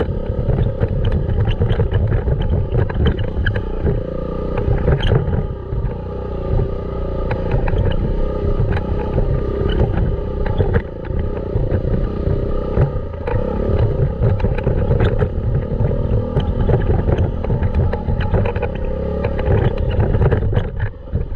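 Dirt bike engine running as it is ridden, its pitch and load shifting, with scattered short knocks and clatter throughout.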